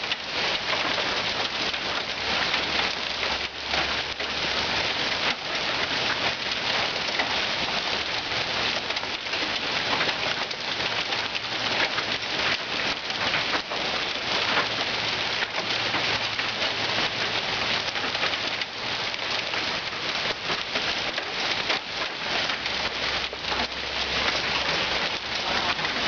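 Hailstorm: hail and rain pelting down steadily, a dense, unbroken patter of many small impacts.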